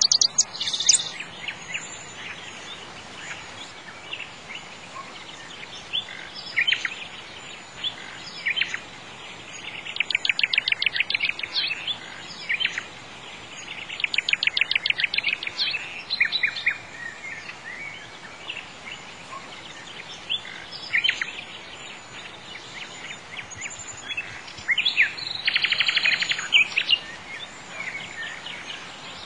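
Birds singing: scattered high chirps and three runs of rapid repeated notes, each lasting one to two seconds, over a steady faint hiss.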